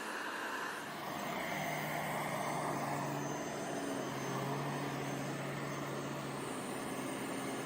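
Handheld mattress vacuum cleaner's motor running steadily, its hum shifting pitch slightly a couple of times as it works.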